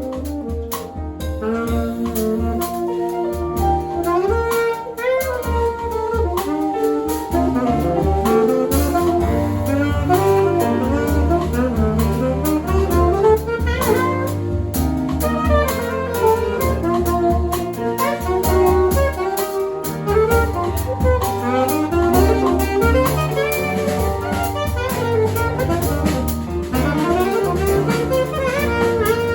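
Small jazz band playing live: an alto saxophone runs a melodic line over piano, keyboard bass notes and a drum kit keeping time.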